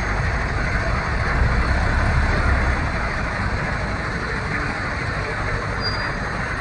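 Heavy 10-wheel dump truck's diesel engine running steadily, a constant low rumble with a noisy haze over it.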